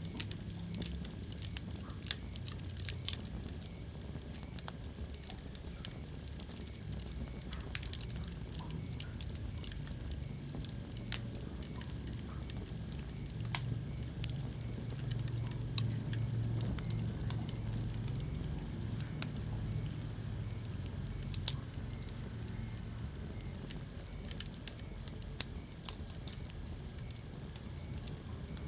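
Wood fire burning in a fireplace: a steady low rumble of flames with irregular crackles and pops, and a few louder sharp snaps scattered throughout.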